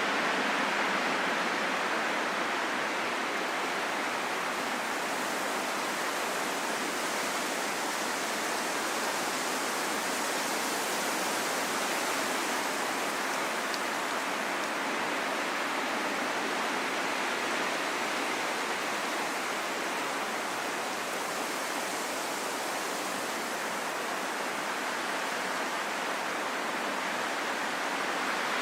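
Calm, steady wind: an even rushing hiss that swells and eases slowly, with no sharp gusts and no howl.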